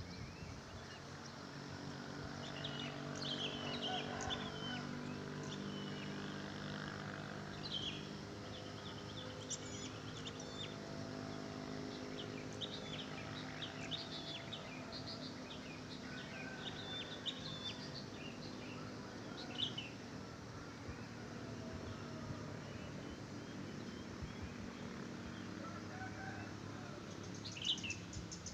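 Wild birds chirping and trilling in many short overlapping calls, over a low steady hum.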